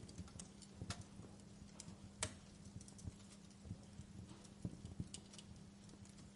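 Wood fire crackling in a fireplace: faint, irregular pops and snaps, the sharpest about two seconds in, over a steady low hum.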